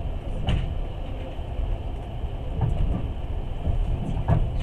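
Passenger train running, heard from inside the carriage: a steady low rumble of the wheels on the track, with three knocks spaced a second or two apart as the wheels pass over rail joints.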